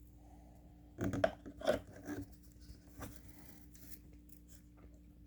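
Handling noises: a quick cluster of light clicks and rustles about a second in, then a few fainter ones, over a faint steady hum.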